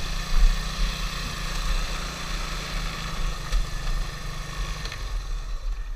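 Small off-road vehicle engine idling steadily while the machine sits stuck in mud, its low pulsing rumble easing near the end.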